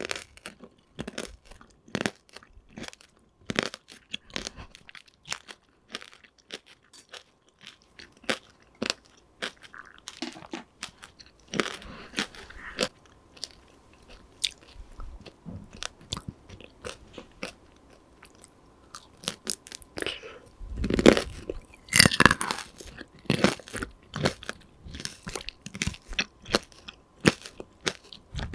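Close-miked chewing of tanghulu, the hard sugar shell crackling and crunching with many short sharp bites. The crunching comes in louder bursts about midway and again around three quarters of the way through.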